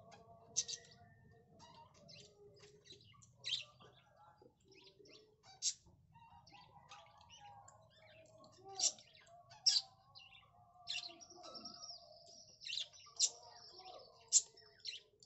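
Small birds chirping, many short sharp chirps scattered irregularly, with a longer high call held for a second or two about eleven seconds in.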